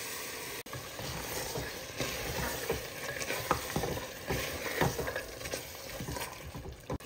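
Goat meat, onions and spices frying in a metal pot with fresh chopped tomatoes, sizzling steadily, while a wooden spoon stirs and scrapes against the pot with irregular knocks.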